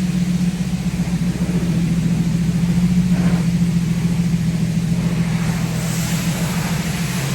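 Car engine running at a steady speed, a low even drone.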